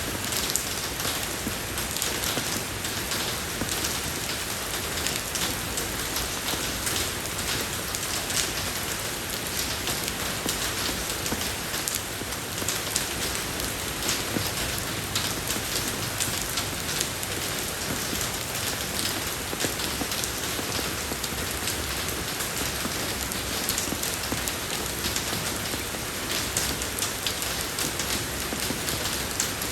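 Steady rain falling on a road surface, an even hiss dotted with the small ticks of individual drops.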